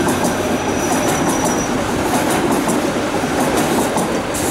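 Paris Métro train running on its rails: a loud, steady rumble with regular clicking of wheels over rail joints and a thin, high wheel squeal for about the first second and a half.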